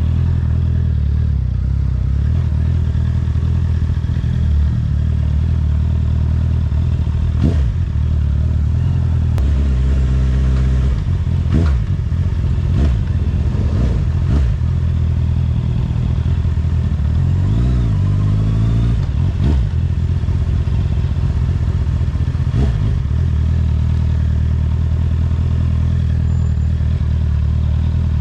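Honda CBR650R inline-four motorcycle engine with an Akrapovic exhaust, running steadily on the move, with the engine pitch rising and falling briefly about ten seconds in and again around eighteen seconds in.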